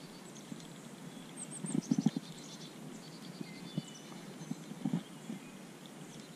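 Birds chirping and singing, with short repeated high notes, over quiet outdoor background. A quick cluster of dull low knocks comes about two seconds in, and a smaller one about five seconds in.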